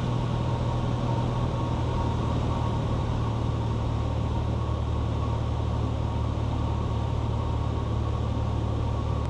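Cessna 182 Skylane's piston engine and propeller droning steadily, a constant low hum with no change in power.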